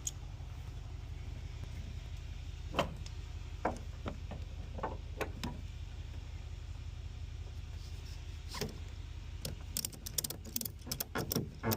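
Knocks and sharp clicks of a pedal boat being loaded and strapped down, ending in a quick run of clicks, over a steady low hum.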